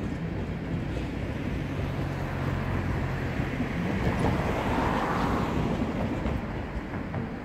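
Deutsche Bahn train running past on the tracks. A steady low hum fills the first half, then a rush of wheel-and-rail noise swells to a peak in the middle and eases off.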